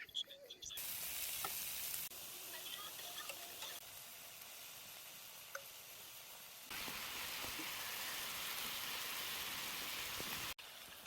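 Food sizzling and frying in a hot pan, a steady hiss whose loudness jumps abruptly a few times.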